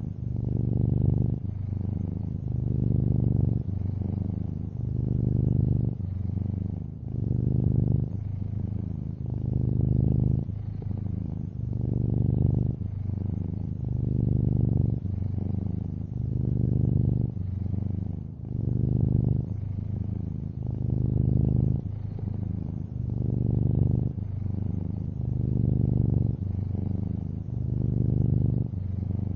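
Domestic cat, a long-haired orange tabby, purring steadily at close range, the low rumble swelling and easing in a regular rhythm about every one and a half to two seconds as it breathes in and out.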